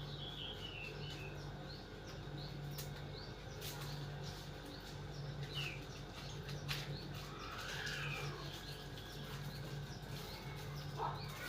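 Small birds chirping, with many short high calls, over a low hum that switches on and off about once a second. A few sharp clicks sound in between.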